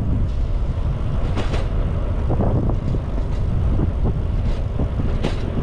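Wind buffeting the microphone of a moving bicycle, a heavy low rumble with road noise, broken by a few short knocks and rattles.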